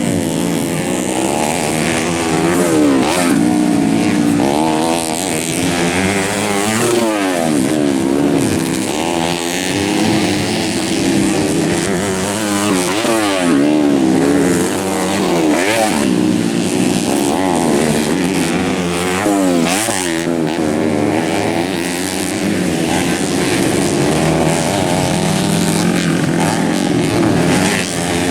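Several dirt bike engines racing together, their pitches overlapping and rising and falling as the riders open and shut the throttle.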